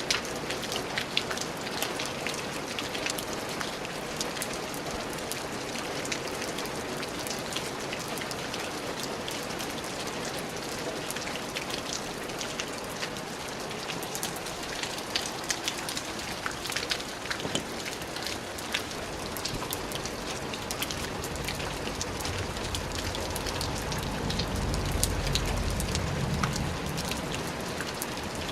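Steady rain falling, a dense even hiss with many individual drops ticking sharply on a surface. Near the end a low rumble swells up under the rain and then fades.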